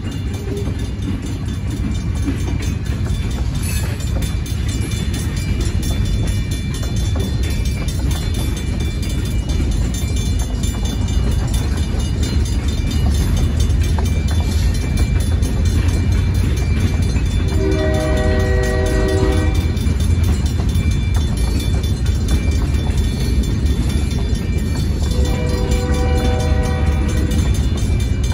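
Freight cars rolling through a grade crossing with a steady low rumble, the crossing bell ringing over it. A locomotive horn sounds twice in the second half, each blast about two seconds long.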